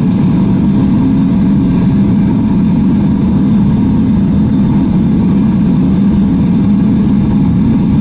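A motor-driven machine running steadily and loudly, a low drone with a few constant whining tones above it.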